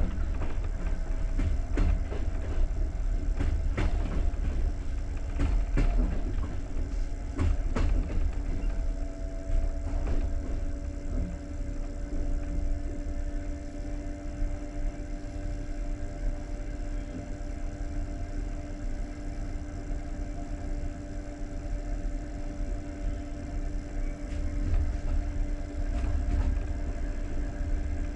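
Passenger train carriage at very low speed: a few knocks from the wheels and couplings in the first eight seconds, then the carriage stands with a steady low rumble and a held hum.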